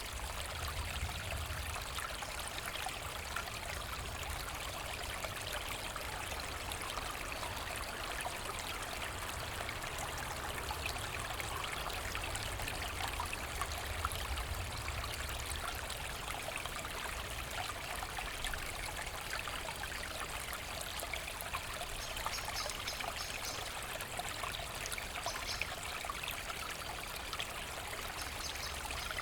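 Small brook running and splashing steadily over stones, a continuous burble with fine trickling detail.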